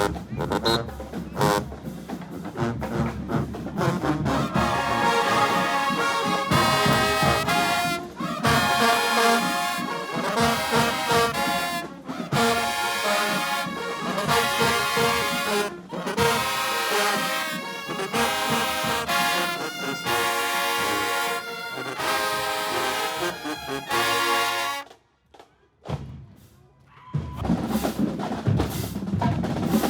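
Marching band playing: drums at first, then the brass section playing loud sustained chords in short phrases with drums under them. The band stops for about two seconds near the end, then the drums start again.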